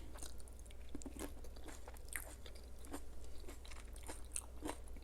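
Close-miked chewing of a mouthful of BLT sandwich: a run of small, irregular crunches.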